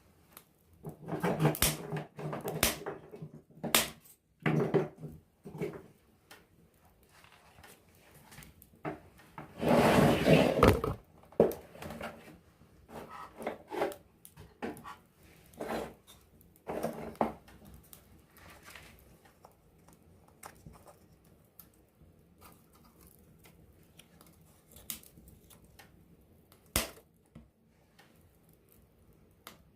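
Wood campfire crackling close up, with irregular pops and snaps of burning wood. Dense spells of crackling come a second or two in and again about ten seconds in, and there is a single sharp pop near the end.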